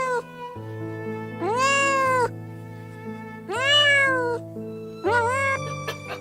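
Cat meowing: two long meows about two seconds apart, each rising and then falling in pitch, with a shorter meow near the end. Background music with steady held notes plays under them.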